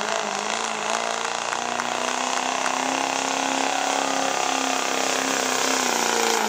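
Diesel pickup engine running hard under load while pulling the weight sled, over a rushing noise. Its pitch steps up slightly about two seconds in, holds steady, then eases down a little near the end.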